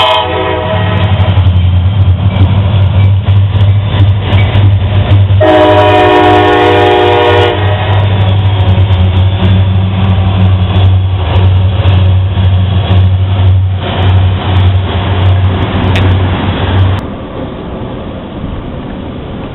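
Diesel train passing close by. Its locomotive horn sounds a short blast at the start and a longer blast about five and a half seconds in, over a heavy engine rumble and the clatter of wheels on the rails. The rumble drops off suddenly about seventeen seconds in.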